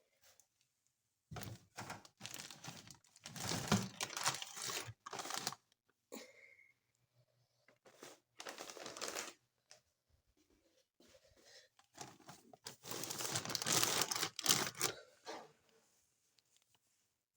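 Crinkling and tearing from handling leafy greens and their wrapping as they are packed for the fridge, in three bouts of a few seconds each.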